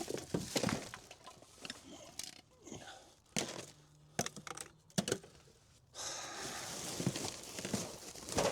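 Rummaging through stored items: scattered clicks, knocks and plastic rustling, turning into a steadier rustle from about six seconds in.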